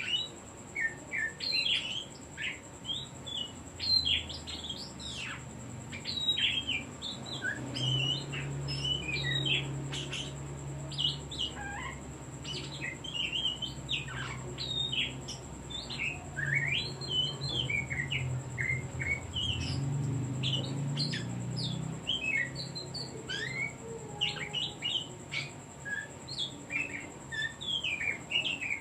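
Oriental magpie-robin (kacer) singing a rapid, unbroken stream of varied whistles and chattering notes. A low hum runs underneath from about 8 to 22 seconds in.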